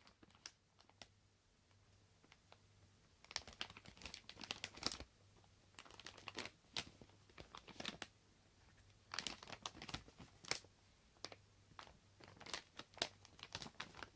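A slow-rebound-style foam bread-slice squishy toy squeezed by hand, its tacky surface giving crackling, peeling clicks in four bunches of squeezes.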